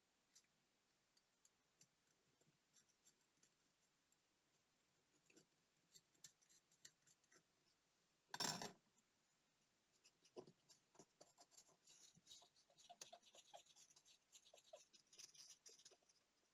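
Faint clicks and scratching of small tools working on a digital watch's tiny parts during disassembly and cleaning, with a short, louder rush of noise about eight seconds in and denser ticking and scraping in the second half.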